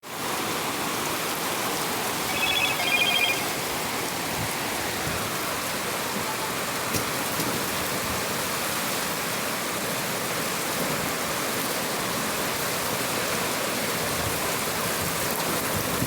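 Heavy rain falling steadily, a dense even hiss. Between about two and three seconds in, a brief high-pitched chirping tone sounds a few times.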